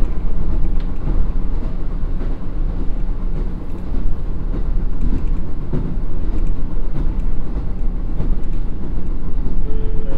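Interior running noise of a KiHa 54 diesel railcar at about 70 km/h: a steady low rumble of wheels on rail with light rail-joint clicks, the train easing off slightly on a downgrade. A few steady tones start just before the end.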